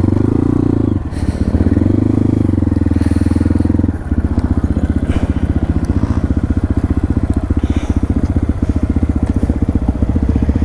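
Dirt bike engine revved up and held twice in the first four seconds, then dropping to a steady, evenly pulsing idle.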